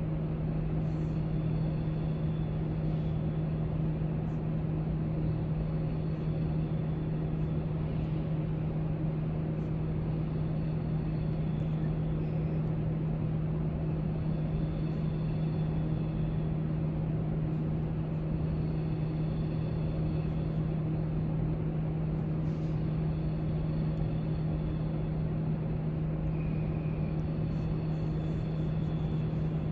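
Library room ambience: a steady low hum, like building ventilation, over constant background noise, with faint distant voices and a few small scattered clicks.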